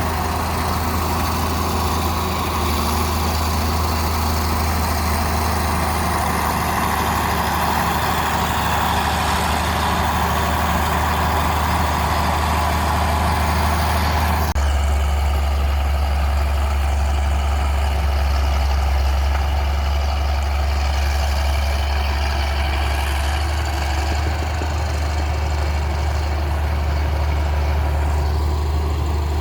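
Bulldozer's heavy diesel engine running steadily with a low drone. About halfway through the sound shifts abruptly: the higher part falls away and the low drone gets stronger.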